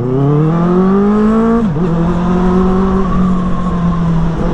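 Benelli motorcycle with a modified exhaust accelerating, its engine note rising. A little under two seconds in, an upshift drops the pitch, and the engine then runs on at a steady pitch.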